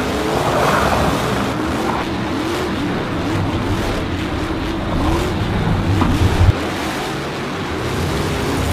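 Race-car engine sound effect: engines revving up and down in repeated short rising-and-falling swells over a steady rumble, briefly louder about six seconds in.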